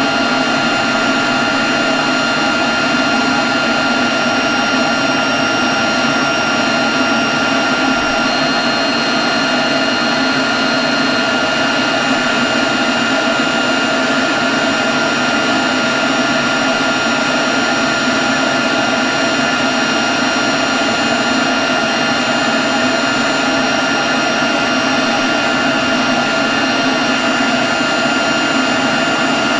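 Leaf blower running steadily at constant speed: a continuous rush of air with a steady high whine that does not change in pitch or level.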